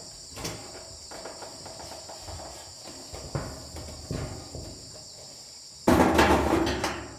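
Steady chorus of insects such as crickets, with a few separate knocks and a louder clatter about six seconds in.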